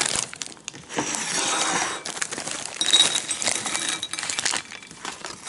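Small hard puffed snack pieces rattling and clinking as they are shaken out of a crinkly plastic snack bag, in two spells.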